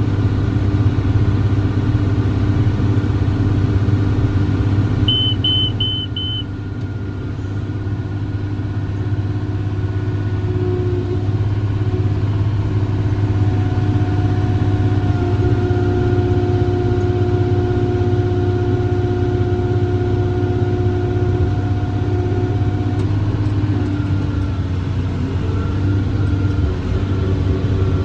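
John Deere 7410 tractor's six-cylinder diesel engine running steadily under load while pulling a round baler in operation. About five seconds in come four quick, high electronic beeps.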